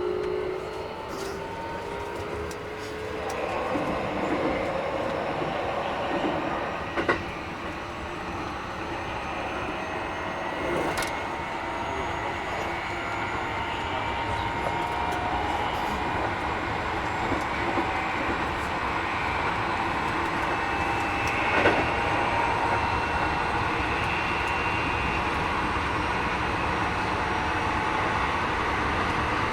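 Keikyu 1000-series train running, its Mitsubishi IGBT inverter and traction motors whining and rising steadily in pitch as the train gathers speed, over rumbling wheels with a few sharp clicks from the rails. The uploader finds this unit a little noisier than others of its class.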